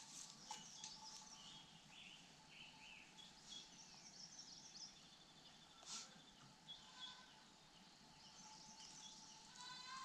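Faint wild birdsong: many short, high chirps and trills from small birds, with a quick rising trill near the end. A single sharp click about six seconds in.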